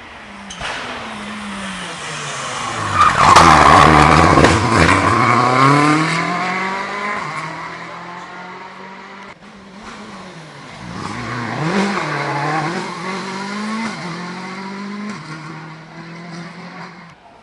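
Rally car engine at full throttle, approaching and passing close by about three seconds in, its pitch falling as it goes past. It fades, then is heard again further off, revving up and dropping through gear changes.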